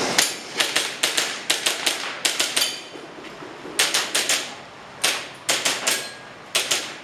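Airsoft pistol fired in quick strings of sharp shots, about twenty in all, two to four at a time, with a pause near the middle as the shooter moves between targets.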